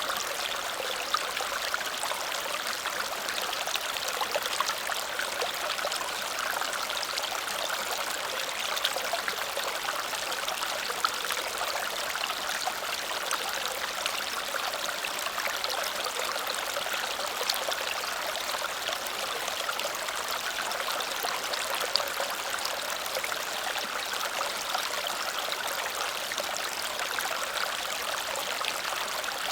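Small waterfall cascading steadily over stones, a continuous rushing splash with many fine droplet splashes mixed in.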